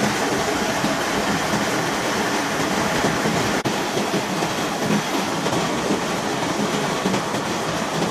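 Milling machine cutting gear teeth in steel, running as a steady loud mechanical noise, with a brief drop about three and a half seconds in.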